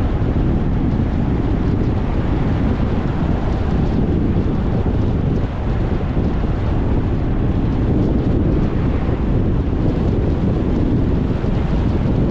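Wind blowing across the microphone: a steady, loud rush, heaviest in the low end.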